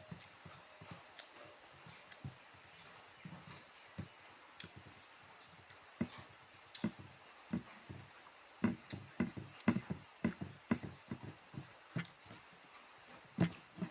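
Close-miked chewing and mouth sounds of someone eating: irregular wet clicks and smacks, coming thicker in the second half.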